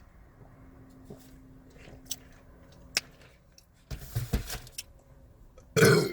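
Eating noises: a few small clicks and a stretch of rustling like a food wrapper being handled, then a short, loud burp near the end.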